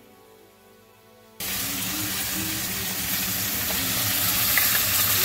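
Soft background music, cut off abruptly about a second and a half in by loud, steady sizzling of food frying in a pan.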